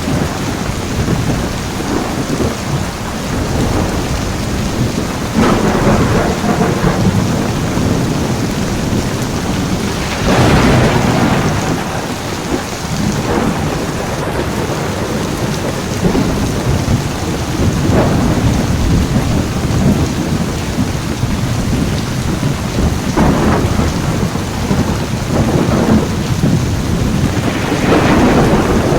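Heavy rain falling steadily, with rolling thunder swelling and fading several times, the loudest roll about ten seconds in.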